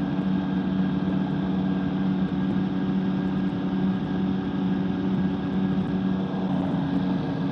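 Microlight trike's engine droning steadily at cruise power in level flight, one constant pitch.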